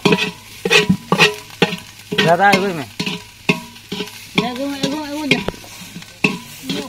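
Sliced onions sizzling in oil in an aluminium pot, stirred by hand so the implement scrapes the pot's bottom in quick repeated strokes. Two drawn-out pitched calls rise and fall over it, one about two seconds in and a longer one about four and a half seconds in.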